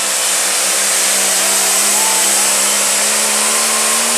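Limited pro stock pulling tractor's turbocharged diesel engine running flat out during a pull, a steady high-revving note that creeps slightly higher, with a loud hiss over it.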